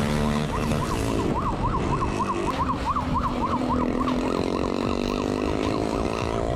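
Police siren on a fast yelp, its pitch rising and falling about four times a second, over a vehicle engine running steadily.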